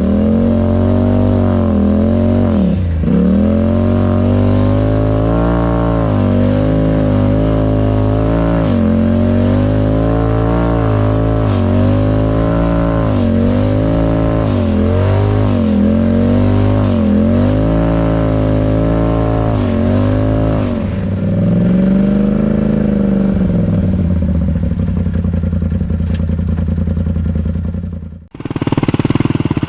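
Off-road vehicle engine revving hard, its pitch dropping sharply and climbing back over and over, as in repeated throttle blips or shifts. Near the end it cuts off suddenly, and a different engine sound follows.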